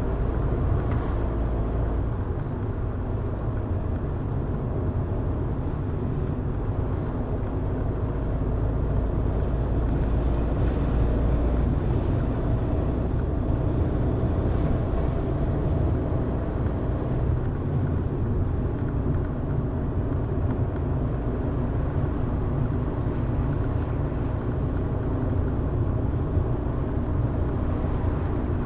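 A car being driven along at a steady pace: a continuous low engine hum with tyre and road rumble. The low hum shifts twice along the way.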